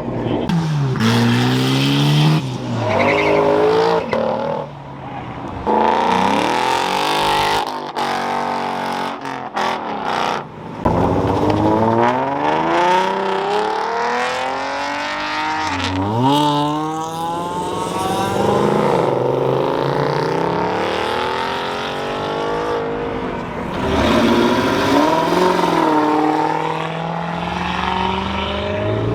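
Cars revving hard and accelerating away one after another, their engine notes rising and falling in pitch again and again.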